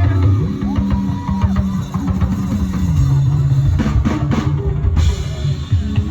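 Live band music with a drum kit prominent: drum strokes over sustained low notes that step between pitches, with melodic lines above.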